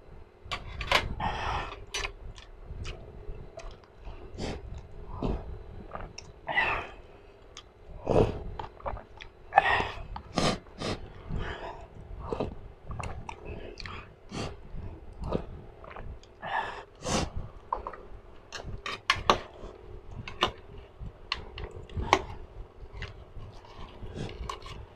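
Close-miked eating of spicy instant cup noodles: chewing with many small wet mouth clicks, broken by several short slurps.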